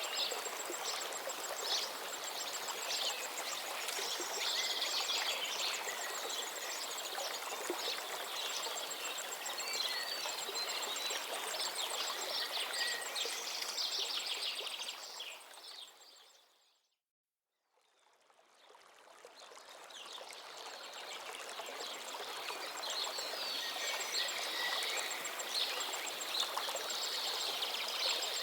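Running stream water with small birds chirping and singing over it. About two-thirds of the way through, the sound fades out to silence and then fades back in.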